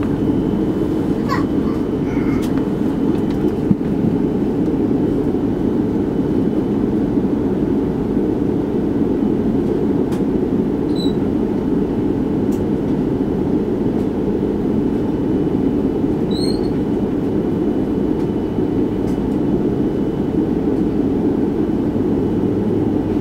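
Steady low rumble inside the cabin of an Airbus A330-300 with its engines running before takeoff, holding an even level throughout.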